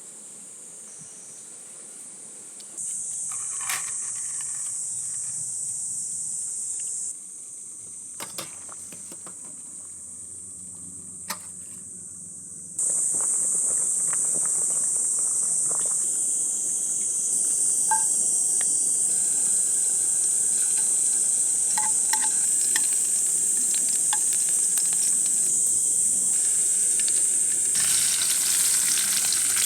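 A steady high insect chirring, then from about 13 seconds in, food sizzling in a frying pan, with a few light clicks of a utensil stirring.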